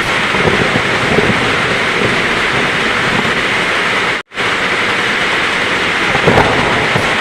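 Steady heavy rain with low rumbles of thunder in it. The sound cuts out completely for an instant about four seconds in, then carries on.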